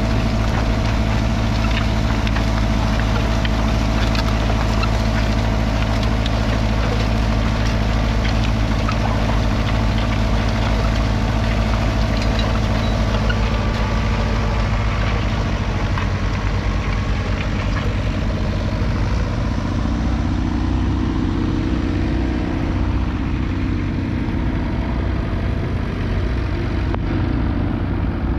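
Fiat 640's 3.5-litre four-cylinder diesel tractor engine running steadily, its note shifting slightly about twenty seconds in.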